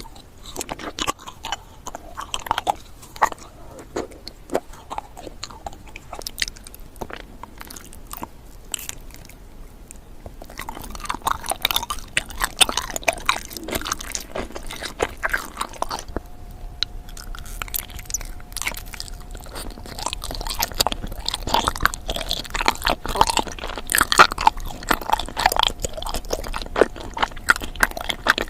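Close-up eating sounds: biting, crunching and chewing in quick irregular crackles, getting busier and louder about a third of the way through.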